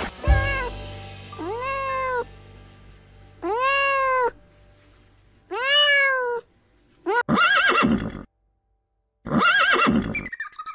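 A Scottish Fold cat meowing several times, each meow a drawn-out call that rises and then falls in pitch. Near the end a horse whinnies twice, with a short silent gap between the whinnies.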